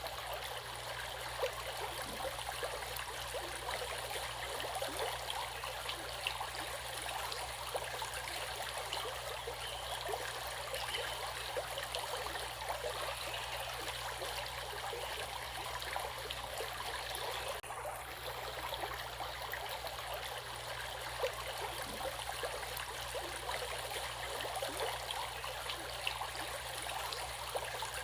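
Stream water running steadily, with many small splashes and trickles.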